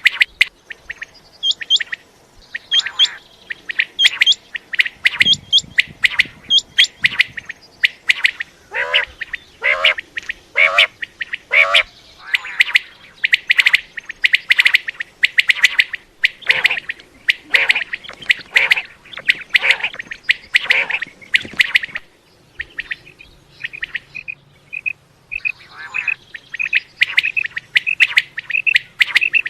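Common quail calling: many short, sharp high notes in quick succession, with a run of lower, falling calls about nine to twelve seconds in and an even, rapid series of notes near the end.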